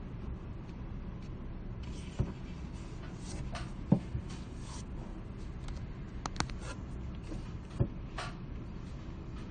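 Library ambience: a steady low room hum, with scattered soft knocks and clicks, the loudest about four seconds in, and short bits of light rustling.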